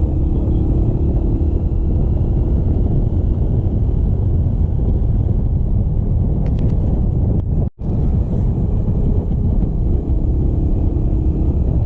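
Motorcycle riding along: a heavy wind rumble on the microphone over the engine's steady running. The sound drops out for a split second a little past halfway.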